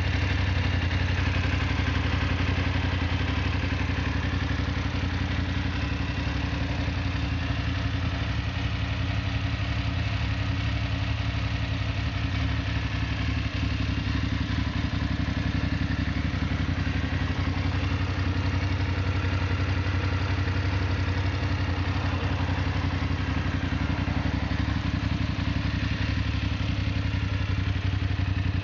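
BMW F 850 GS's parallel-twin engine idling steadily.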